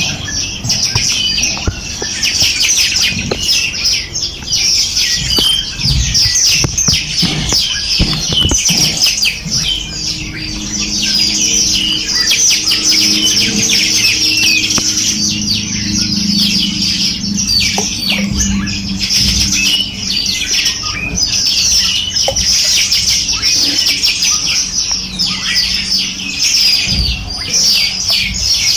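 A chorus of many small birds chirping and twittering continuously, their rapid high calls overlapping, with a low steady hum and a few knocks underneath.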